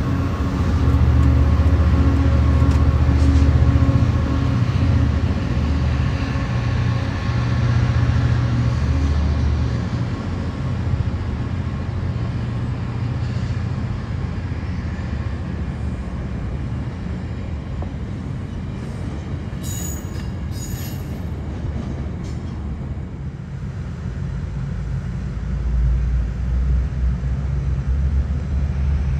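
Sounder commuter train, hauled by an EMD F59PHI diesel locomotive, rolling through the station past bilevel coaches. A low diesel rumble with steady tones is loudest over the first ten seconds or so and then eases as the train rolls by. A low rumble swells again near the end.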